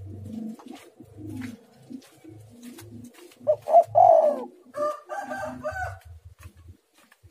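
Spotted dove cooing repeatedly, its loudest coos coming about halfway through.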